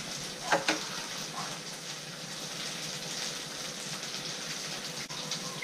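Sliced hotdog frying in ketchup sauce in a pan, a steady sizzle, with two light clicks about half a second in.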